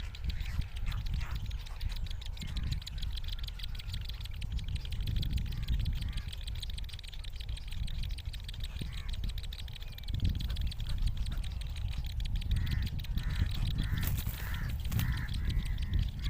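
Young of a fish-eating bird calling, with a run of short, repeated calls in the last few seconds over a steady low rumble.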